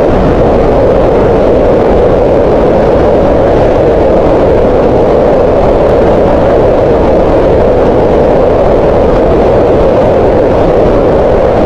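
Green noise: a steady synthetic noise, loudest in a band around 500 Hz, with no changes or events.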